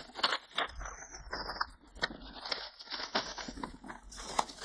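Packaging being cut and pulled away from a boxed coffee maker: an irregular run of sharp clicks, knocks and rustles from cardboard and plastic.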